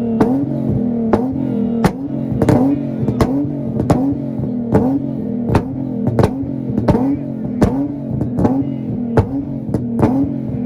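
Nissan Z car's VQ V6 held on a two-step launch limiter, the revs bouncing against the cut with a sharp exhaust pop or bang about every two-thirds of a second.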